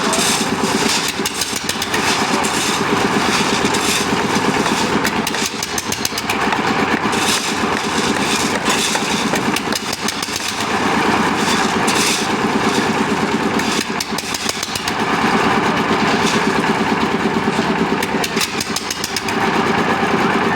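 Engine of a site concrete mixer running steadily under load. Its sound dips and swells about every four seconds.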